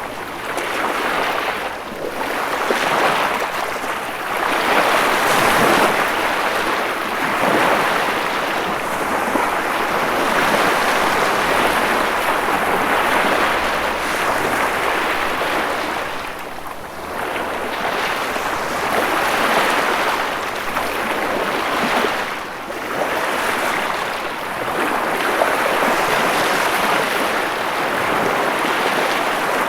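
Ocean waves breaking and washing on the shore, a continuous hiss of surf that swells and ebbs every few seconds.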